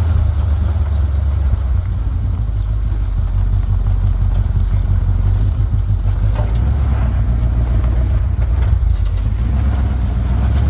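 Ford Bronco's engine running as the 4x4 is driven around a bumpy dirt track. The low drone shifts in pitch a few times as the revs change, with a few short knocks along the way.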